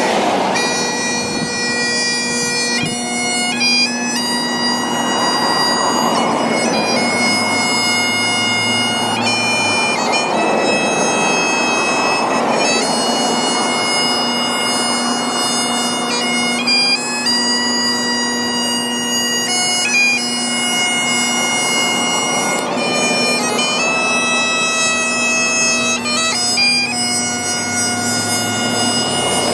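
Bagpipe music: a melody of held notes stepping up and down over a steady drone.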